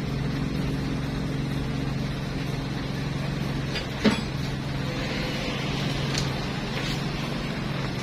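Steady low mechanical hum in the background, with one sharp click about four seconds in and two lighter clicks a few seconds later, as small metal engine parts are handled.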